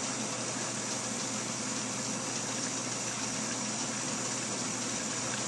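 Kettle of water at the boil, giving off a steady hiss and rush of steam.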